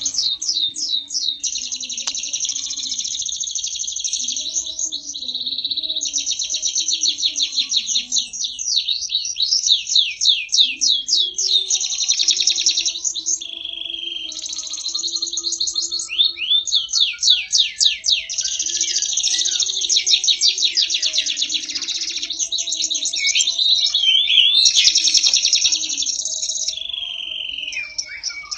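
Domestic canary singing continuously: long runs of rapid trilled notes and rolling phrases, broken by a few brief pauses.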